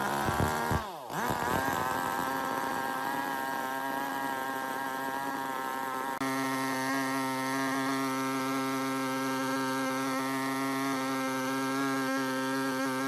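A chainsaw's small two-stroke engine running at a steady high speed. Its pitch dips briefly about a second in, then holds level.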